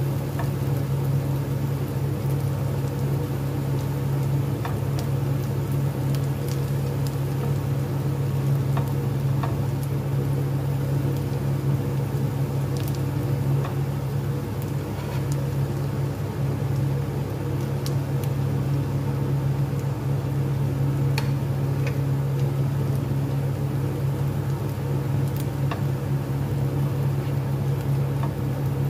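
Chopped onion sizzling in olive oil in a frying pan, stirred with a spatula, with scattered small pops and taps. Underneath is a steady low mechanical hum, the loudest sound throughout.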